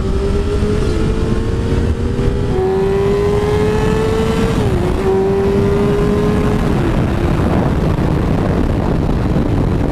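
Sport bike's inline-four engine pulling hard under acceleration, its pitch climbing steadily and dropping sharply at two upshifts about five and seven seconds in, under heavy wind rush.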